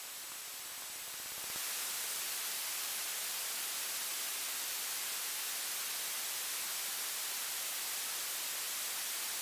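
Steady hiss of aircraft radio static with no voice on the channel, stepping up in level about a second and a half in.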